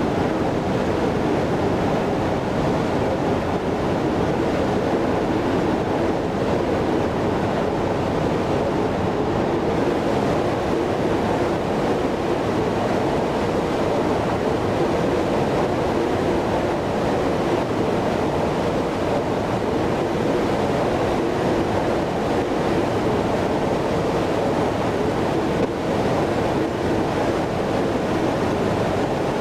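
Steady rushing noise of an Airbus A330-300 jet airliner, even in level with no changes.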